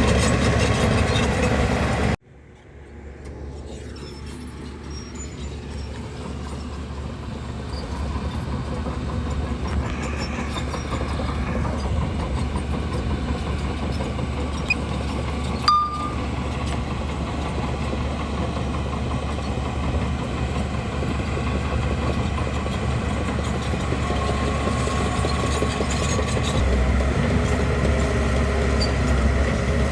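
Heavy diesel engine of a bulldozer running steadily. The sound drops off abruptly about two seconds in, then comes back faint and grows gradually louder. There is one sharp click near the middle.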